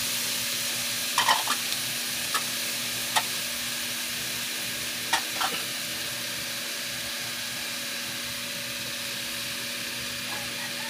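Sliced pork lung and heart sizzling in a wok just after soy sauce and vinegar are added, while a wooden spatula stirs them. The spatula knocks sharply against the pan a few times in the first half.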